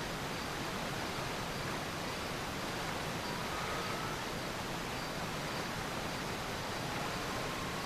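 Steady, even hiss of noise, with no change in level, and a faint short high tone about three and a half seconds in.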